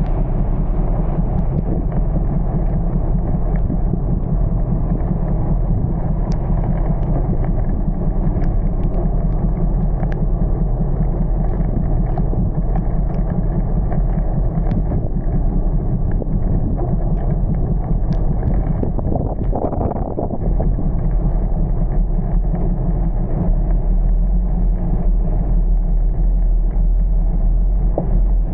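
Steady low rumble of a moving vehicle with wind buffeting the microphone, and faint scattered ticks over it.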